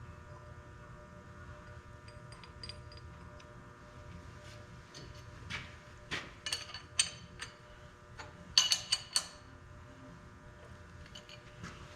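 Metal tools and parts being handled: a series of sharp clinks and knocks, with a louder cluster about two-thirds of the way through. Under them runs a steady low shop hum.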